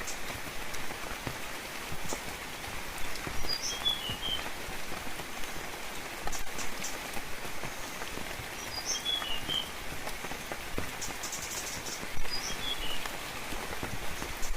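Steady rainfall pattering, with scattered louder drops. A songbird calls a short, high chirping phrase three times, several seconds apart.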